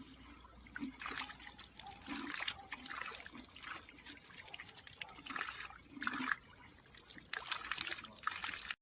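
Faint, irregular liquid sounds in short bursts of trickling water.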